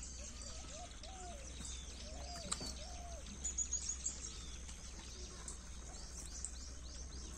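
Birds chirping and twittering over and over, with a low steady hum underneath.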